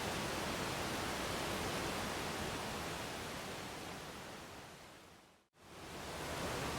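Steady rushing of a waterfall. It fades away to silence about five and a half seconds in, then swells back up within a second, like a join between two takes.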